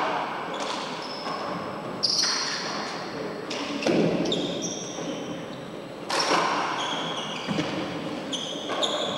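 Handball rally in an enclosed four-wall court: the hard rubber ball smacks off the hands and walls about every two seconds, each hit echoing, with short high squeaks in between.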